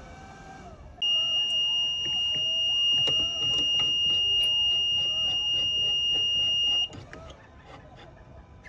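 An electronic beep from a heated phone-separation machine as it starts a heating cycle: one steady, high-pitched tone lasting about six seconds that starts a second in and cuts off suddenly, with faint regular ticking under it.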